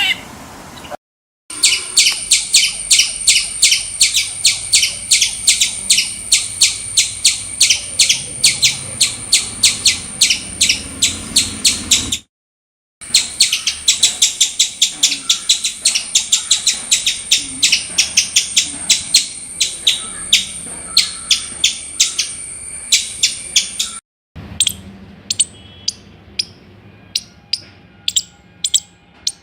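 Squirrel chattering alarm calls: a fast run of short, sharp, high chirps, about four or five a second, broken twice by brief gaps, then slowing to scattered single chirps near the end.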